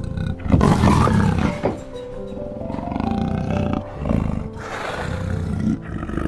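A big cat growls and roars in four bursts over background music, the loudest burst starting about half a second in.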